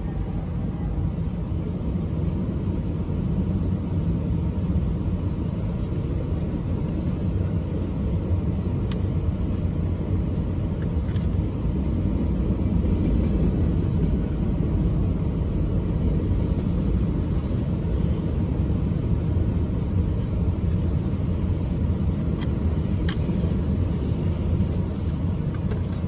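Freight train rolling through a level crossing, heard from inside a car's cabin: a steady low rumble as the diesel locomotives and then the covered hopper cars go by, with a few short sharp clicks.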